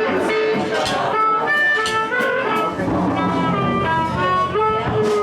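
Live blues band instruments, harmonica and guitar, playing loose phrases of held notes that change pitch every fraction of a second, with a few cymbal or drum hits.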